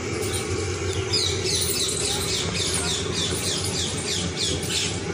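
A bird calling outdoors: a quick run of high-pitched, falling squawks, about three a second, starting about a second in, over a steady low background rumble.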